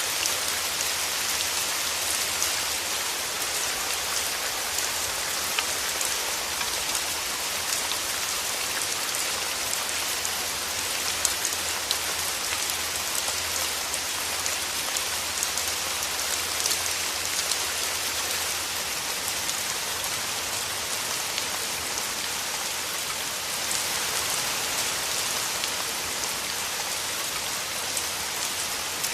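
Steady rain falling through forest trees: a dense, even hiss with many fine drop ticks.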